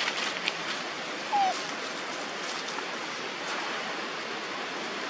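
A monkey gives one short, falling squeak about a second and a half in, over a steady background hiss, with a few short clicks at the very start.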